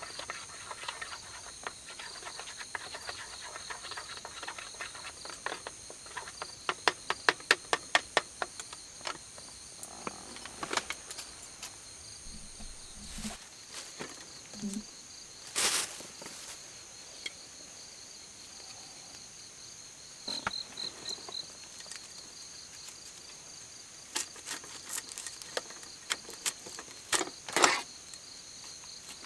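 Insects, crickets by the sound of it, chirping steadily in several high, overlapping tones, with scattered sharp clicks and knocks on top, including a quick run of loud clicks a few seconds in.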